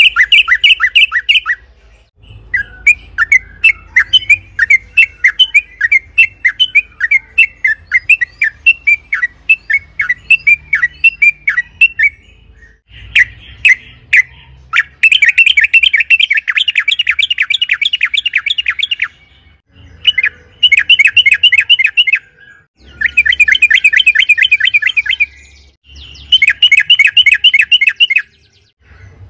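Yellow-vented bulbul (trucukan) singing: a string of separate clear chirps, about three a second, for the first ten seconds or so, then long fast rolling trills in bursts of two to four seconds with short breaks between them.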